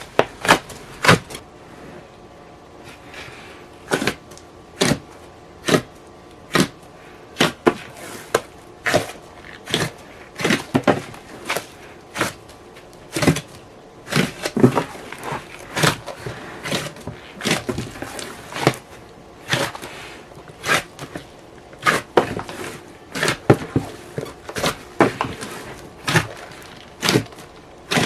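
A large batch of slime being kneaded by hand, giving irregular sharp pops and squelches about one or two a second.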